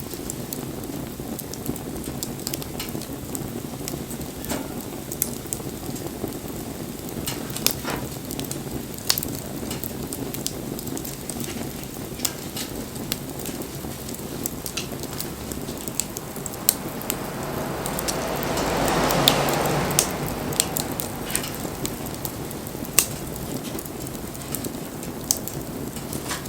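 Wood bonfire crackling, with a steady hiss and frequent sharp pops from the burning wood. About two-thirds of the way through, a broad rushing sound swells for a few seconds and fades.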